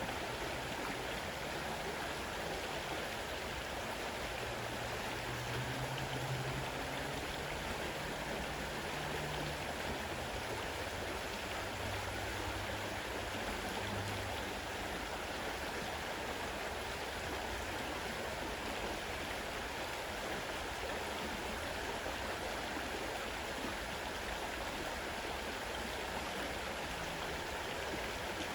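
Fast-running river water rushing steadily, a constant even wash of noise.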